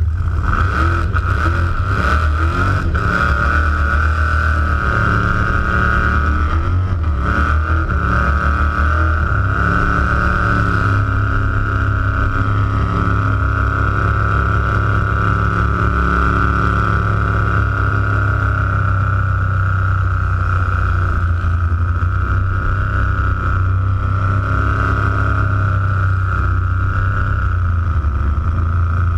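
Supercharged big-block Ford V8 of a hot rod coupe held at high revs during a burnout, heard from right beside the engine. It runs steady and loud throughout.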